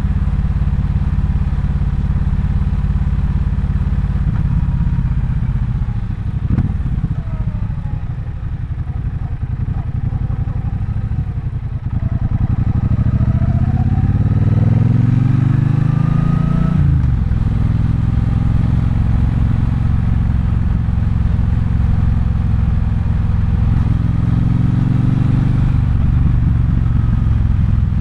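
Triumph Bonneville Bobber's 1200 cc parallel-twin engine running under way. It eases off and quietens for a few seconds, then pulls up through the revs with a rising pitch, drops sharply as it shifts up, and settles into a steady cruise.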